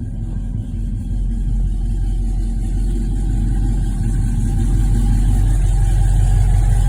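Chevrolet small-block V8 engine running at a steady idle, growing gradually louder.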